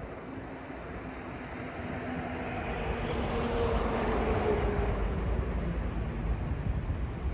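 A vehicle passing by, growing louder over the first few seconds, with a faint tone that dips slightly in pitch as it goes past, over steady city background noise.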